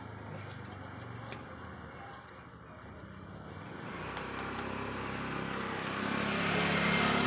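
A motor vehicle's engine growing louder as it draws near, loudest near the end.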